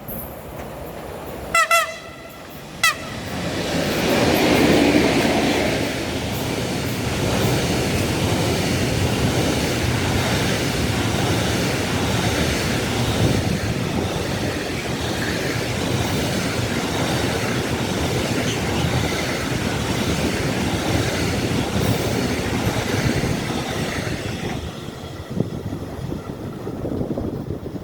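A train sounds two short horn blasts, then passes with a steady rush of wheel and rail noise that lasts about twenty seconds and falls away near the end.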